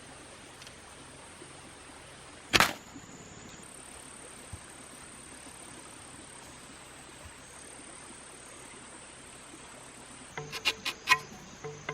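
Insects buzzing steadily in the forest with one sharp loud snap about two and a half seconds in. Near the end a quick run of clicks with short pitched rings starts.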